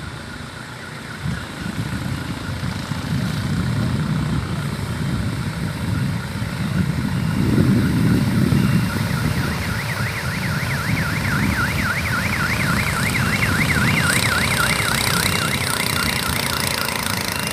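A motor engine runs steadily throughout, swelling in the middle. About ten seconds in, a high warbling trill joins it for some five seconds.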